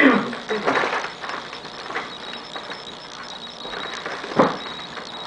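Small mechanical clicks and rattles of hard objects being handled, with one sharper click about four and a half seconds in.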